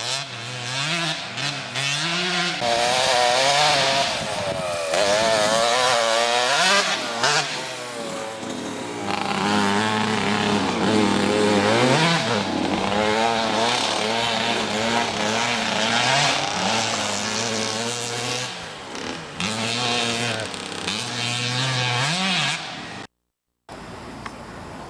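Mini motocross bike engine revving up and down, its pitch rising and falling over and over as the rider works through the throttle and gears. The sound cuts off abruptly near the end.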